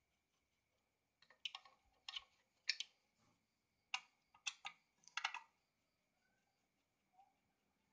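Sharp clicks and clacks of small metal sewing-machine parts being handled, about eight in a burst over some four seconds, then quiet handling.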